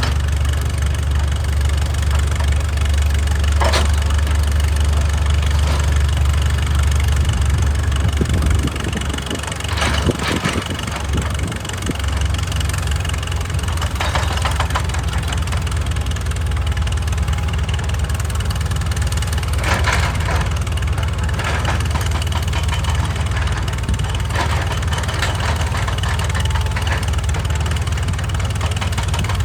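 Excavator's diesel engine running steadily, its note dropping about eight seconds in and picking up again a few seconds later, with a few sharp knocks on top.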